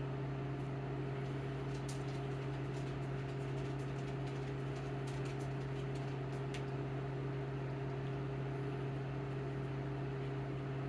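Steady low hum of a small electric motor, the egg incubator's fan running, with a few faint ticks over it.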